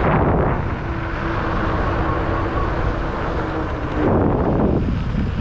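Wind rushing over the microphone and tyre rumble from an Ecotric 500-watt fat-tire e-bike riding along at speed, with a faint steady hum from about one to four seconds in.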